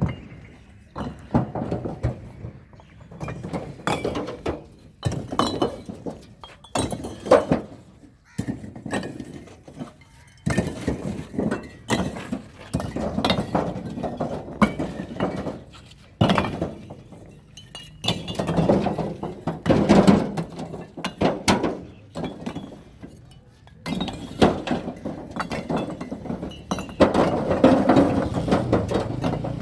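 Fired clay bricks being unloaded by hand, knocking and clinking against one another in many sharp, irregular clacks.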